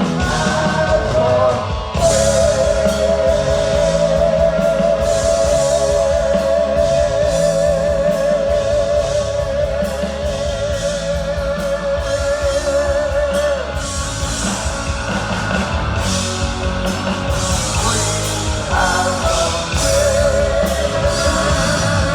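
Heavy metal band playing live: distorted guitars, bass and drums, with one long note held with a wavering vibrato for about ten seconds before the full band carries on.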